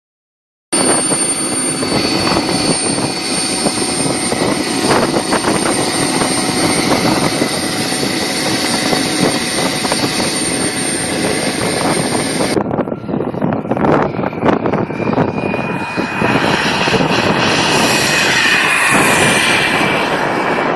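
Engine of a radio-controlled F-16 model jet running, a loud rushing noise with a thin steady high whine. About halfway through the sound changes abruptly. Later a swelling rush carries a tone that slowly slides down.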